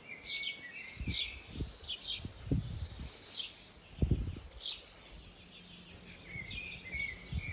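Birds chirping on and off, in short high chirps, with a few dull low thumps in the first half.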